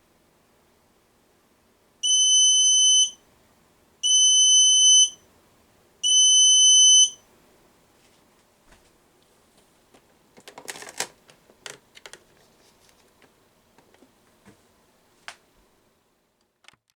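The electronic buzzer of a modified PlayGo toy washing machine gives three steady, high one-second beeps, two seconds apart, which is typical of an end-of-cycle signal. A few faint clicks and rattles follow.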